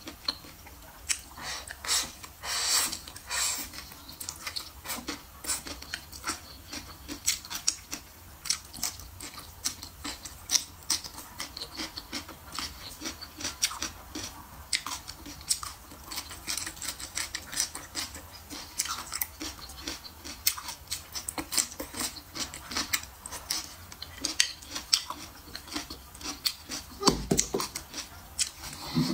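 Close-miked mouth sounds of a person chewing meat: many quick wet smacks and clicks, with a low thump shortly before the end.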